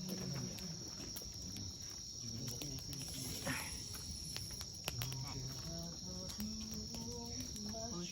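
Night insects, crickets, chirping in a steady high unbroken tone, with scattered small clicks.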